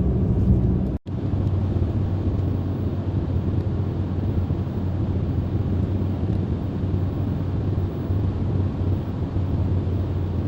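Steady low drone of road and engine noise from inside a moving small car, with a sudden break in the sound about a second in.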